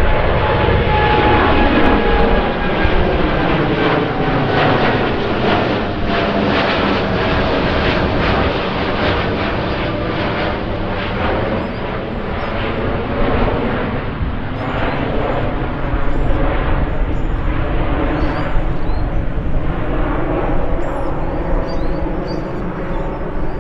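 Jet airliner's engines running loudly as it passes close by, their whining tones sliding down in pitch as it goes by. Wind buffets the microphone.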